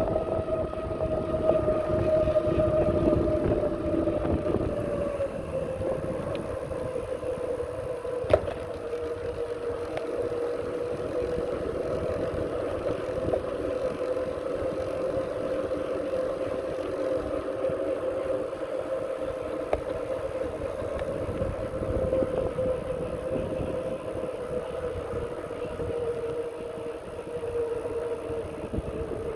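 Wind rumbling on the microphone during a bicycle ride, with a steady mid-pitched whine that sinks slightly in pitch over the first few seconds and then holds. There is a single sharp click about eight seconds in.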